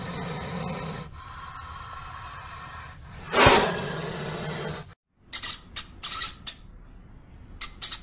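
Spectacled cobra hissing, with one loud hiss about three and a half seconds in. From about five seconds a dwarf hamster gives a run of short, sharp squeaks.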